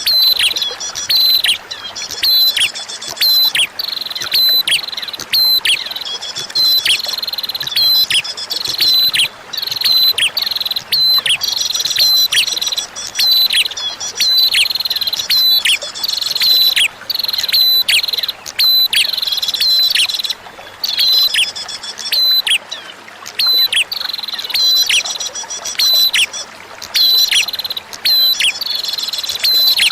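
Prinia (prenjak) calling: rapid runs of sharp high chirps, each note dropping quickly in pitch, in phrases of a few seconds with short breaks, over a steady background of trickling flowing water.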